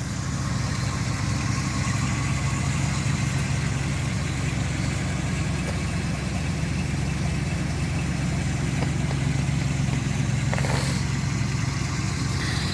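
1983 Pontiac Firebird's engine idling steadily while it warms up after a cold start on a freezing morning.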